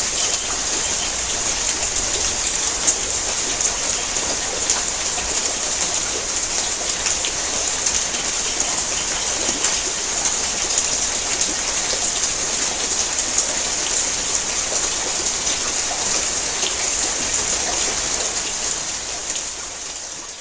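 Heavy rain drumming on a tin roof: a dense, steady patter of countless drops, fading out near the end.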